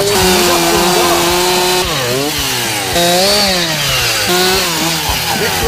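Chainsaw cutting oak logs into firewood, its engine pitch rising and falling repeatedly as the throttle works and the chain bites into the wood.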